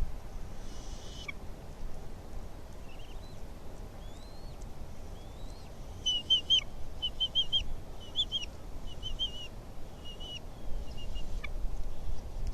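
Bald eagle calling: about five quick bursts of short, high, chittering notes, each burst a few notes long. Before them come a few faint rising whistles, and a low wind rumble runs underneath.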